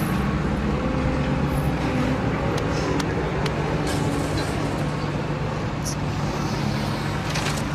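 A steady engine running, a low hum and rumble that holds even with a few faint ticks over it.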